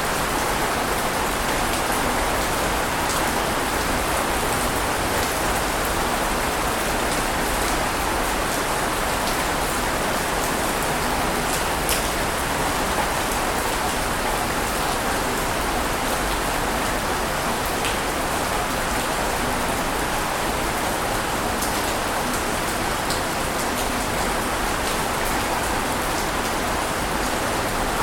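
Steady, dense rushing water noise, even in loudness with no audible rise and fall of individual breaking waves, flecked with scattered faint droplet-like ticks.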